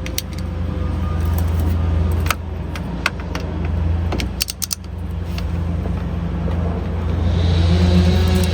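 Metallic clicks and small rattles of hand tools working the steering wheel retaining bolt with a T50 Torx bit, several in quick succession about four seconds in, over a steady low drone.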